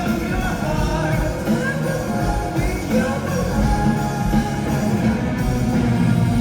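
Live rock band playing loudly, with sung vocals over the full band.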